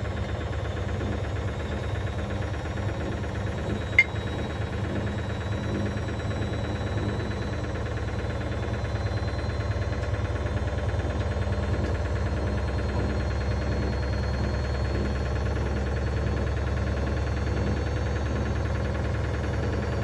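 Hoover DynamicNext washing machine running, a steady low rumble with a faint motor whine that slowly rises in pitch. A single sharp knock about four seconds in.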